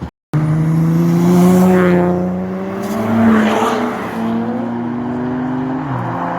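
A high-performance car engine running loud, its pitch climbing and stepping several times and dropping near the end, as the car accelerates past. The audio cuts out briefly right at the start.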